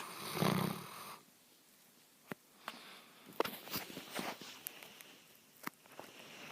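Great Dane puppy snoring in its sleep: a snore in the first second, then quieter breathing with scattered small clicks.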